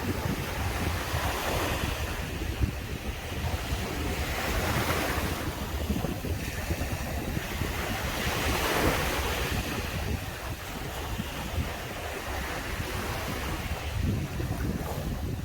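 Sea waves breaking and washing up on the beach, the surf swelling and easing every few seconds, with wind buffeting the microphone.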